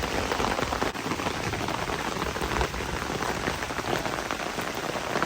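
Steady heavy rain falling on a tarp and hammock tent, a dense patter of drop hits.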